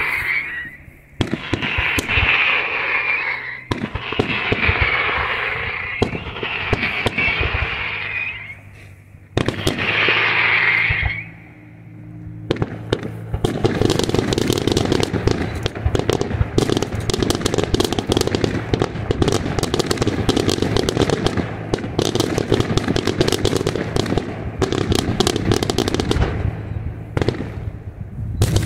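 Daytime aerial fireworks going off. First comes a string of hissing bursts, each a second or two long. From about halfway it turns into a dense, continuous rattle of rapid sharp bangs and crackles.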